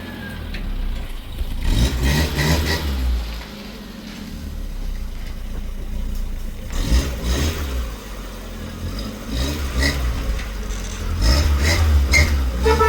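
A motor engine running just after starting, its speed and loudness rising and falling, loudest near the end.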